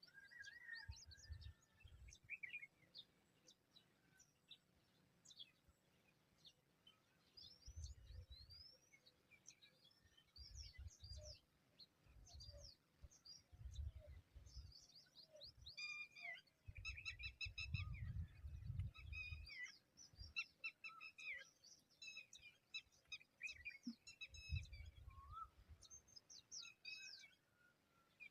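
Faint chirps and short calls of birds, many brief notes, busiest about halfway through, with low rumbles underneath at intervals.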